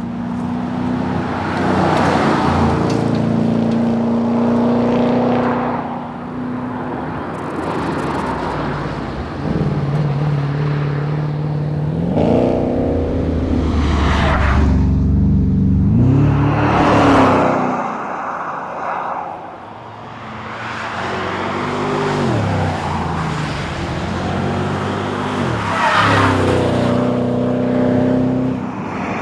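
Holden VE SS Commodore's V8 engine at full race pace, its pitch repeatedly climbing under acceleration, then dropping on lifts and gear changes before climbing again. The deepest lull comes about two-thirds of the way through.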